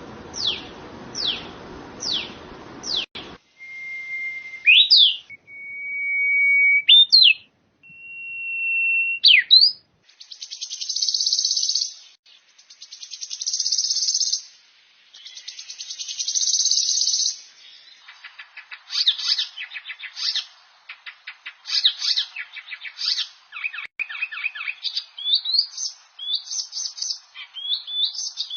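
Songbirds singing, in several separate recordings of different species in turn. First comes a run of quick down-slurred whistles. After a sudden change, there are long level whistles, each ending in a sharp upward flick, then loud buzzy trills. Varied rapid chirps and twitters fill the last part.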